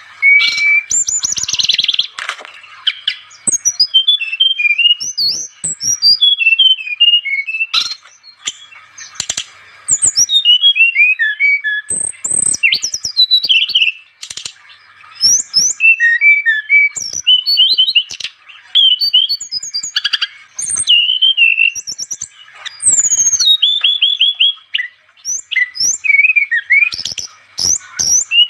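A brown-chested jungle flycatcher (sikatan rimba dada coklat) singing in full, continuous song: rapid, varied phrases of high whistles, chirps and trills, broken by short pauses.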